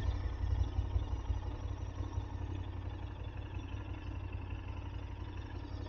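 KTM 1290 Super Adventure S's V-twin engine idling at a standstill, a low, steady rumble.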